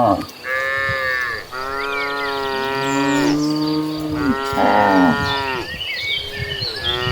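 Several cattle mooing, long drawn-out moos that overlap one another. A short pause comes about six seconds in, then another moo begins.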